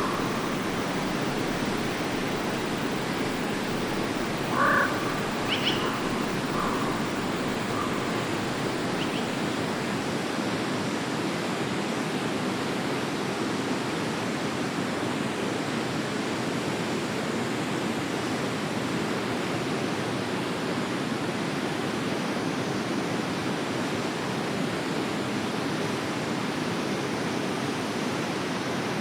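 Forest stream flowing with a steady rush of water. A bird calls a few short times about five seconds in, then once faintly a few seconds later.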